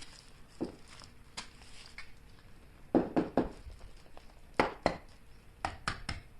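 Sharp clicks, taps and crinkles from hands handling an unwrapped Kinder Surprise chocolate egg and its foil wrapper, bunched in small groups about three, four and a half and six seconds in.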